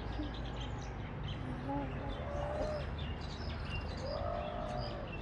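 Faint bird chirps and calls over steady outdoor background noise.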